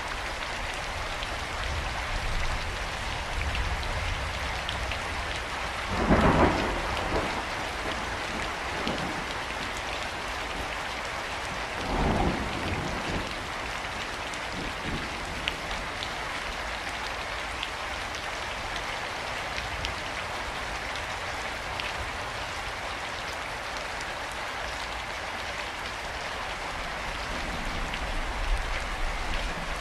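Steady rain falling and pattering on surfaces, with two short rumbles of thunder, about six and twelve seconds in.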